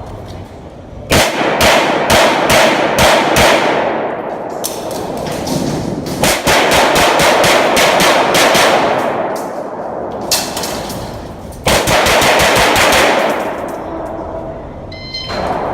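Rapid strings of pistol shots from an Open-division competition pistol during a USPSA stage. The shots come in quick bursts of several at a time, starting about a second in, with short pauses between bursts.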